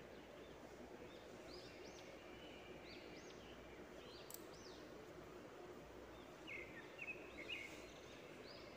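Near silence with faint bird chirps: short, high, rising-and-falling calls in small groups every second or two. There is one soft click about four seconds in.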